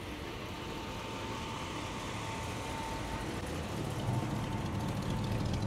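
A motor vehicle's engine running close by, its low rumble growing louder toward the end over a steady outdoor hiss, then cutting off suddenly.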